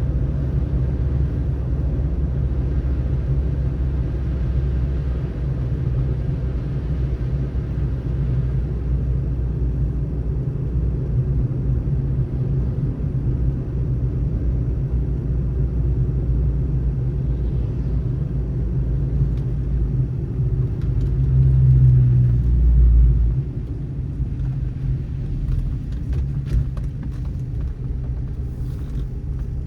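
Car driving on a snowy road: a steady low rumble of engine and tyre noise that swells louder for a couple of seconds about three-quarters of the way through. A few faint clicks come near the end.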